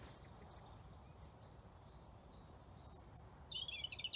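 Songbirds singing in woodland: faint high chirps, then about three seconds in a short thin high note followed by a loud, rapid trilled phrase, over a low steady outdoor rumble.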